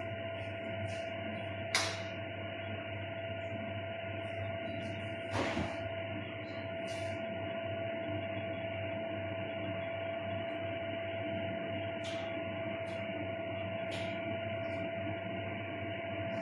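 Steady electrical hum with one held whining tone, and a few short clicks and knocks, the loudest about two seconds in and another about five and a half seconds in.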